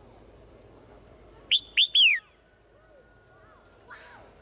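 A swallow calling: three loud, clear chirps in quick succession about a second and a half in, each note rising sharply and then falling, over faint background bird calls.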